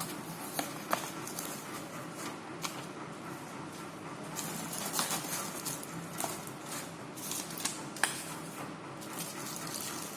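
Handling of headphone packaging during unboxing: scattered small clicks and crinkles over a steady hiss.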